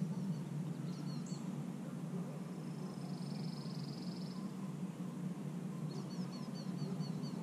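Birds singing: a short run of high chirps about a second in, a thin buzzy trill in the middle, and a string of quick falling notes near the end, over a steady low rumble.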